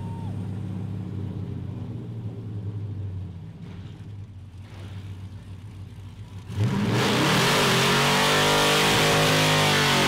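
A burnout competition car's engine running steadily, then revving up sharply about two-thirds of the way in and holding at high revs, much louder, with a wide rushing noise over it.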